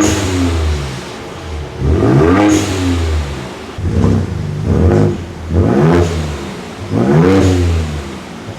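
Ford Raptor 3.0's twin-turbo V6 through its stock exhaust, revved in neutral about six times in quick succession, each rev rising and falling back. There is a short high hiss near some rev peaks, from the aftermarket HKS blow-off valve the owner has fitted.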